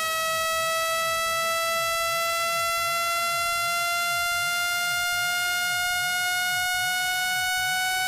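Synthesized speaker-cleaning tone: a buzzy, steady tone rich in overtones, gliding slowly upward in pitch. It is played at full volume to vibrate a phone speaker's diaphragm and grille and shake out trapped water.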